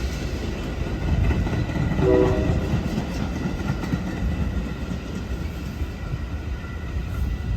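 Metra commuter train arriving, pushed by an F59PH diesel locomotive: a short multi-tone horn blast about two seconds in over the train's steady low rumble on the rails.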